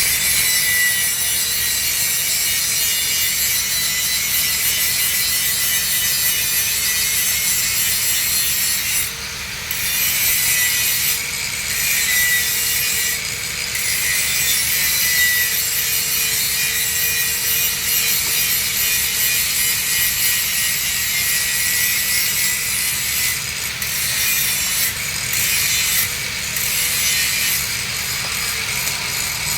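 Electric welding arc on 3-inch schedule 80 steel pipe, crackling steadily as a weld pass is laid, with a few brief breaks in the arc.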